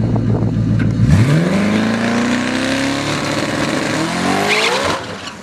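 Twin-turbo Mustang V8 rumbling at the starting line, then launching about a second in: the engine note climbs steeply and keeps rising as the car pulls hard down the drag strip, dropping away sharply near the end.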